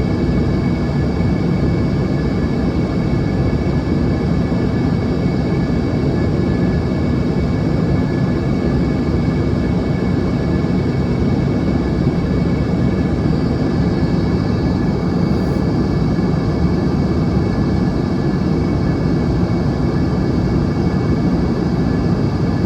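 Steady cabin roar of an Embraer ERJ-145 in flight: its rear-mounted Rolls-Royce AE 3007 turbofans and the airflow, with faint steady high tones over the deep rumble.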